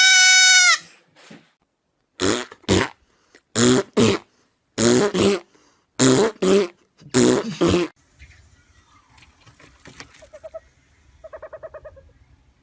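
An animal calling: one loud, high held cry at the start, then five pairs of short loud calls, then faint quick chirps near the end.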